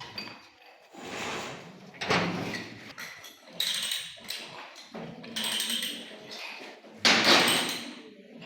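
Repeated rasping strokes of metal on metal from hand work on a pipe, one every second or two, uneven in spacing.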